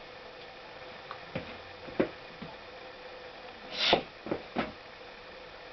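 Scattered soft pops and gurgles coming from the opened Honda CX500 engine, a bubbling sound, about six irregular pops with the loudest a little before four seconds in, over a faint steady hum.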